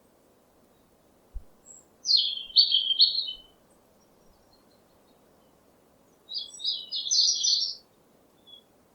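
A bird chirping in two short bursts of quick, high notes, about two seconds in and again about six seconds in, over a faint steady background hum.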